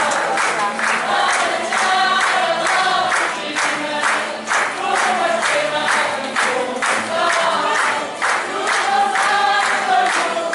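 A group of voices singing together in chorus over a steady rhythmic accompaniment, about three beats a second.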